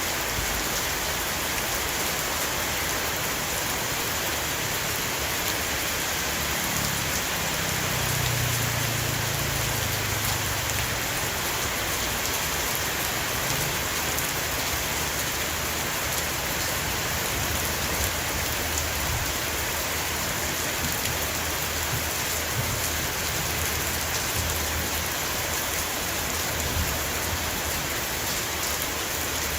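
Heavy rain shower pattering steadily on a roof, a dense, even hiss of drops. About a third of the way through, a low rumble swells under it for a few seconds.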